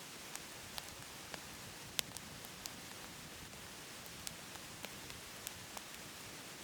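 Firewood crackling in a wood-burning stove: irregular sharp snaps, the loudest about two seconds in, over a steady hiss.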